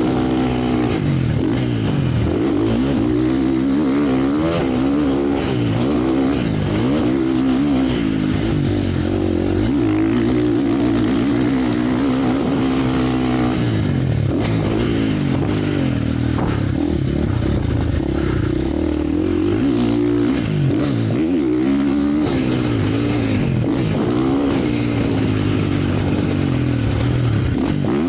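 Motocross motorcycle engines revving, the pitch climbing and dropping again and again as the bikes accelerate and shift or back off.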